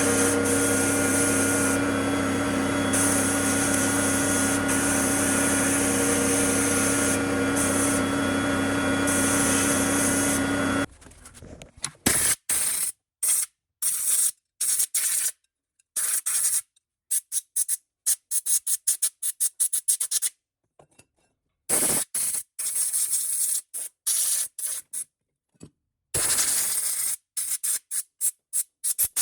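A power tool running steadily, cutting off about eleven seconds in; then a long series of short, scraping or hissing strokes, each separated by silent gaps.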